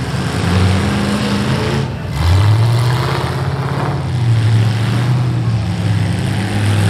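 Demolition derby cars' V8 engines running and revving hard, their pitch rising and falling, with another engine note climbing about two seconds in.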